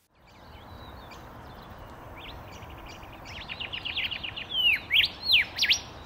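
Rufous whistler singing: a run of quick repeated notes builds up, then a few loud, swooping whistles come near the end, over a steady background hiss.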